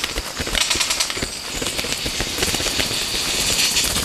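Male Vogelkop bowerbird's display song at his bower: a fast run of clicks with a harsh, buzzing rasp over it.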